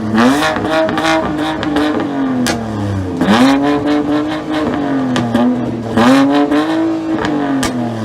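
A car engine being revved in repeated free revs: each rev climbs quickly, holds high for a second or two and falls back. Fresh revs start about three seconds in and again about six seconds in.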